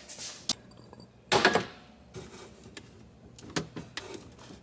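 Kitchen handling noises as grapes are got out: a few light clicks and knocks, and one louder brief scrape about a second and a half in.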